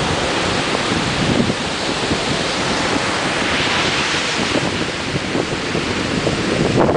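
Ocean surf breaking and washing on the shore: a continuous rushing hiss that swells in the middle, over an uneven low rumble of wind buffeting the camera's microphone.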